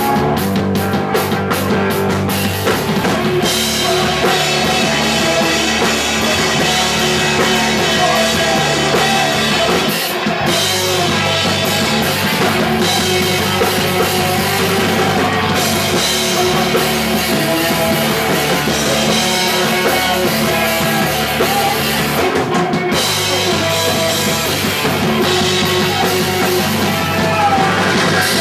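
A punk rock band playing live, with distorted guitars, bass and a pounding drum kit, and some singing.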